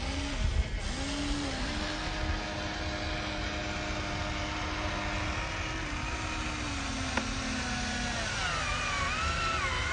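Electric motors and plastic gearboxes of a Huina radio-controlled construction model whining as they are driven, the pitch rising and falling in short spurts at first, then holding steady for a few seconds. A single click a little after seven seconds in, and a higher wavering whine near the end.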